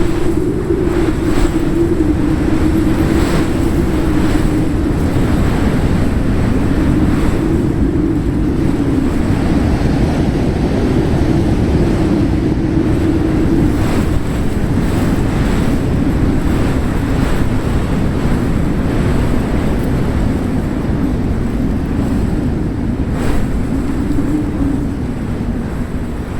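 Wind buffeting the microphone over breaking surf: a loud, steady rumble with a low drone that wavers in pitch.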